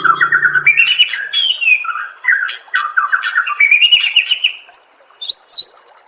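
White-rumped shama (murai batu) singing in loud, fast phrases of rapid repeated notes and sweeping whistles. A brief pause about five seconds in is followed by a few high, sharp notes.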